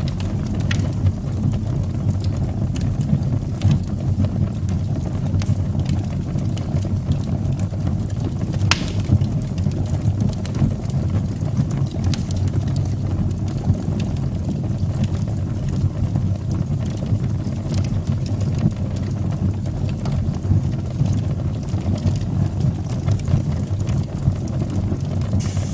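Wood fire burning in a fireplace: a steady low rumble of flames with scattered crackles and pops, the sharpest about a third of the way in.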